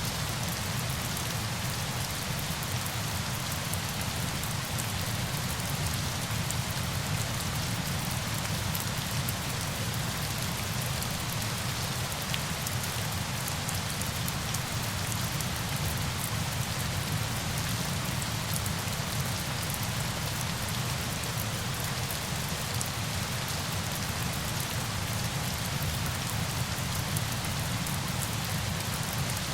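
Steady rain with a fine patter of drops, an even, unchanging noise.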